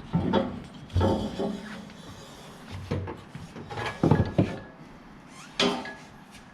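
Irregular knocks and clatter of metal tools or parts being handled: about six sharp hits, some with a short metallic ring.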